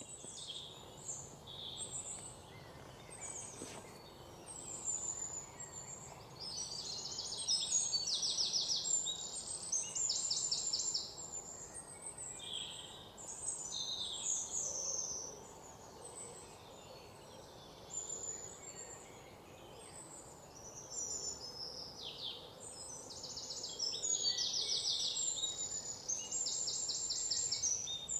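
Forest birds chirping and singing, several calls overlapping, with fast high trills coming back every few seconds over a faint steady background hiss.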